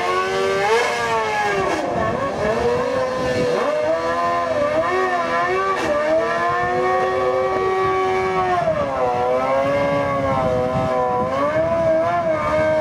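Drag-racing sport motorcycle's engine revving on the start line. The pitch rises and falls repeatedly, holds high for a few seconds midway, then wavers up and down again.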